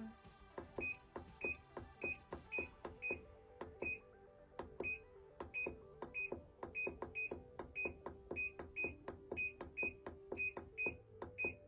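Button presses on an RCA RPW302 portable washing machine's control panel, each a sharp click, most with a short high beep, about two to three a second, as the delay setting is stepped up hour by hour.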